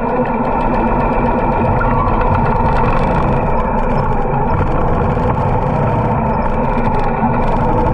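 Harley-Davidson motorcycle engine running steadily while riding, at an even, unchanging pitch.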